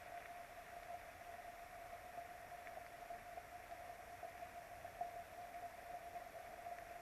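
Faint, steady rain hiss with a few light ticks of drops, under a constant steady tone.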